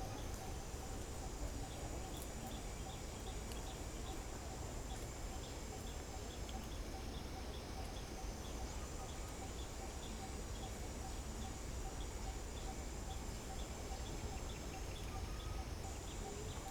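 Steady high-pitched insect buzz, with a faint chirp repeating evenly over a low rumble.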